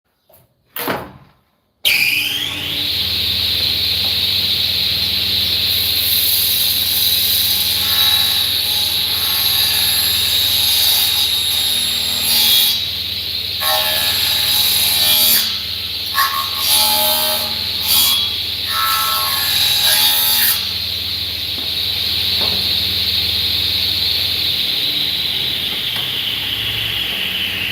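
An electric woodworking power saw starts up about two seconds in with a rising whine. It cuts wood in a series of uneven stretches, then runs on with its whine dropping in pitch near the end.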